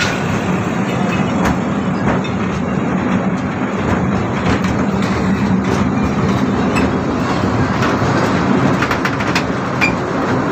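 Amusement-park ride train running along its track, heard from on board: a steady low running noise with scattered clicks.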